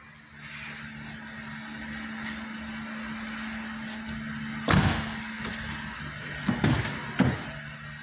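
A steady low mechanical hum with a hiss over it, broken by three loud thumps: one near the middle and two close together near the end.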